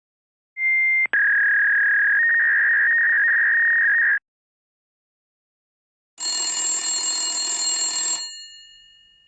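Telephone ringing twice: first a steady electronic ring tone for about three and a half seconds, with a short break just after it starts. Then, after a two-second gap, a bell ring for about two seconds that rings out and fades.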